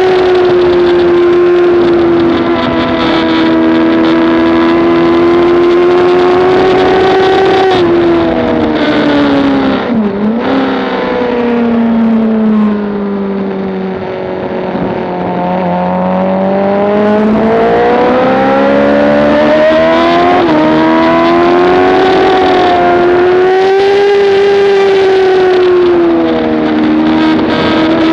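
Track motorcycle engine under way at speed, revs changing throughout: held high at first, dropping off from about eight seconds in to a low point a few seconds later, then climbing again with a quick jump in pitch around twenty seconds and falling away once more near the end.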